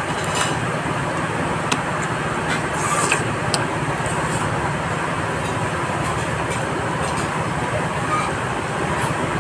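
Steady vehicle and road noise, with a few faint clicks now and then.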